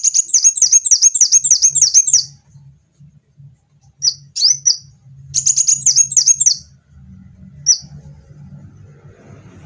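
Kolibri wulung sunbird singing: a rapid trill of high, sharp chirps at about five notes a second, then a pause, a second trill, and a few single chirps near the end. A faint low hum runs underneath in the second half.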